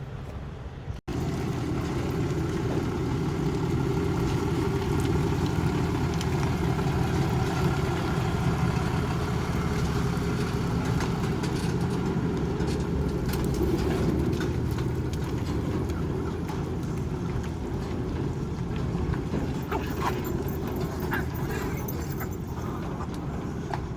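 Steady drone of a semi-truck's engine and road noise heard from inside the cab while driving, starting after a brief cut about a second in.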